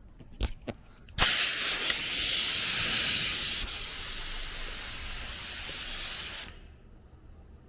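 A few light clicks, then compressed air hissing out of the vehicle's tires through the Morrflate deflation hoses. The hiss starts suddenly about a second in, is strongest at first and eases, then cuts off sharply after about five seconds as the valve is closed.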